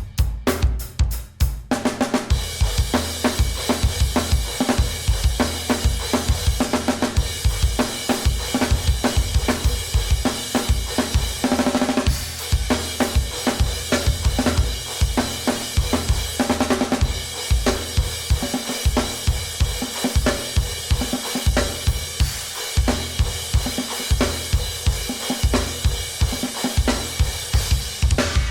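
Drum kit featuring an SJC Custom Drums Alpha aluminum 6.5x14 snare with a Remo Powerstroke 3 head, giving a dry, cutting crack. A quick run of single strokes opens, then about two seconds in the full kit comes in with a steady groove of kick drum, snare and a constant wash of Zildjian cymbals.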